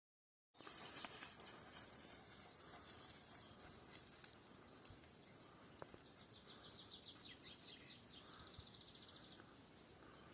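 Faint songbird song: a series of quick high notes from about halfway through, ending in a fast trill, with a few single chirps near the end, over a quiet outdoor background.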